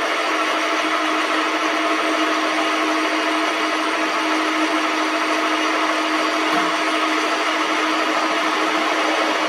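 Metal lathe running steadily: an even mechanical noise with a constant hum.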